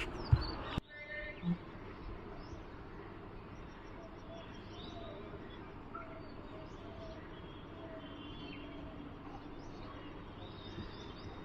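Faint birds chirping and calling now and then over a steady outdoor background, after a couple of loud knocks in the first second.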